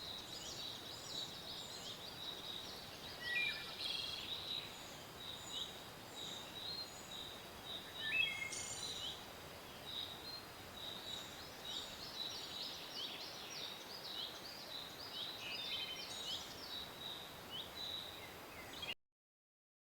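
Forest birds chirping and singing over a steady background hiss: a dense run of short, high chirps from several birds, with a few lower sweeping notes among them. The sound cuts off suddenly near the end.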